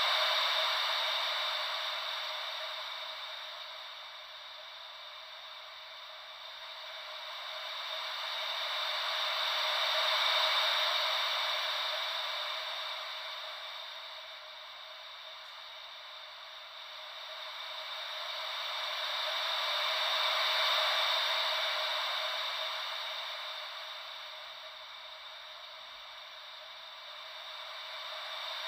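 Gentle ocean-wave white noise: a hiss with no deep rumble that swells and fades slowly and evenly, cresting about every ten seconds.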